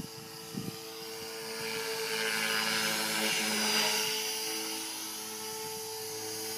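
Align T-Rex 450 Pro electric RC helicopter in flight: the steady whine of its 450MX motor and drivetrain, held at a constant head speed in governor mode, with the hiss of the rotor blades. The blade hiss swells louder about two seconds in, then eases off.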